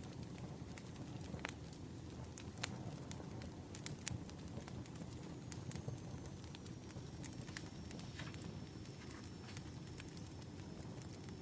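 Firewood burning: irregular sharp pops and snaps over a steady low rumble.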